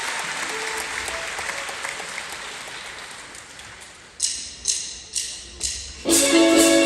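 Concert audience applauding, dying away over about four seconds. Then four sharp clicks about half a second apart, a count-in, and a rock band comes in with the next song about six seconds in.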